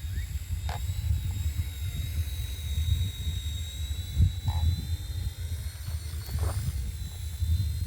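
RC helicopter flying, its rotor and motor giving a steady high whine that creeps slightly up in pitch, under heavy wind buffeting on the microphone.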